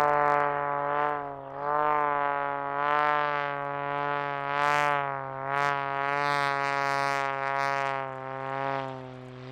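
Piston engine and propeller of a modified Pitts S2S aerobatic biplane droning steadily during a low pass, the pitch wavering slightly up and down before the sound eases off near the end.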